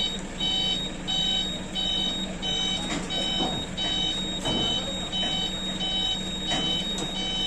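A truck's reversing alarm beeping steadily, about three beeps every two seconds, over the steady hum of a running engine, with a few brief knocks.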